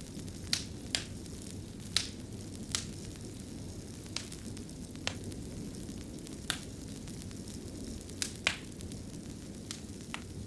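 Wood fire burning in a fireplace: a steady low rumble of flames with irregular sharp crackles and pops, about ten in all.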